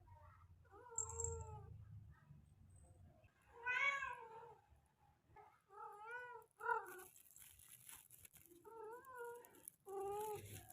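Tom cat yowling repeatedly, about six drawn-out calls that bend in pitch, the loudest about four seconds in: the mating call of a male cat wanting a female.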